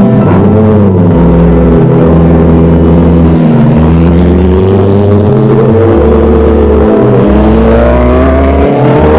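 A superbike engine running, its pitch dropping at the start, holding steady, then rising again near the end, over background music with a heavy bass line stepping between notes about once a second.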